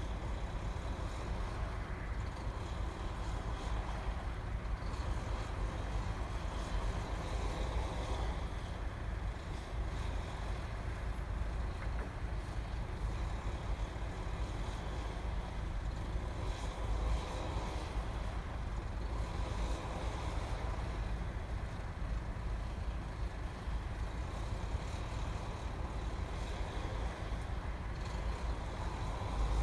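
Steady low rumble of a car's engine idling, heard from inside the stationary car's cabin, with an even airy hiss over it.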